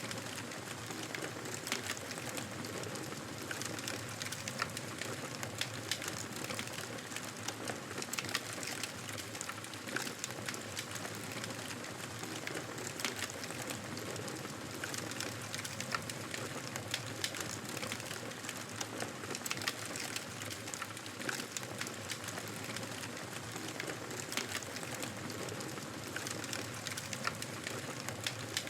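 Wood fire crackling in a fireplace: a steady hiss of burning with frequent small pops and snaps scattered irregularly throughout.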